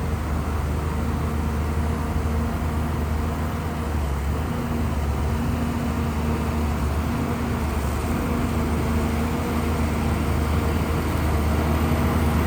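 Shantui bulldozer's diesel engine running steadily under load as it pushes mud and soil, getting a little louder near the end.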